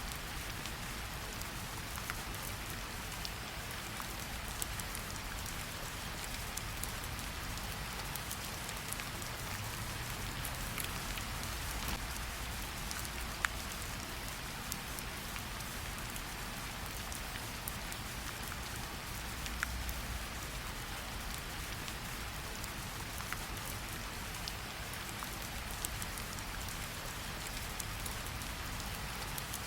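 Steady gentle rain falling on tree leaves, a constant patter with scattered louder single drops dripping throughout, one sharper drop about 13 seconds in.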